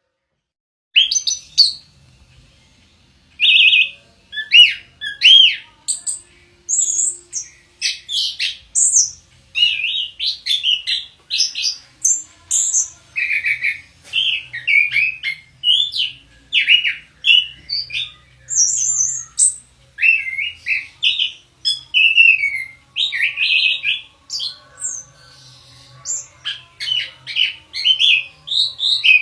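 Orange-headed thrush (anis kembang) singing: a fast, unbroken run of varied short whistled and chirping phrases, some rising and falling in pitch, starting about a second in.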